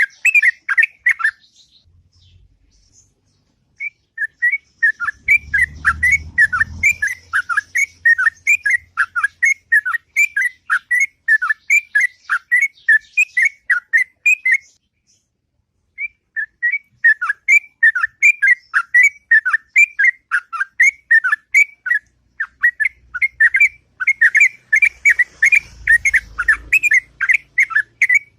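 Yellow-vented bulbul (trucuk) singing a long, rapid run of repeated whistled notes, about three a second. It pauses briefly twice. A low rumble comes in twice, about six seconds in and near the end.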